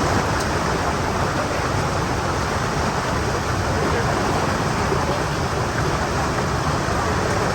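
Steady, loud rush of fast-flowing river water pouring through a rocky canyon toward a waterfall.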